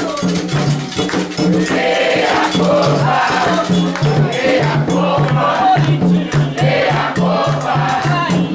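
A group singing a Candomblé chant to a steady beat of hand drums alternating between two pitches, with a rattle shaking throughout.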